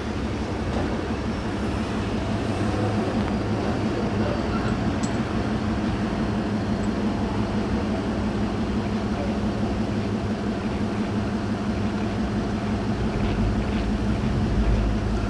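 Steady low engine drone, running at an even speed throughout.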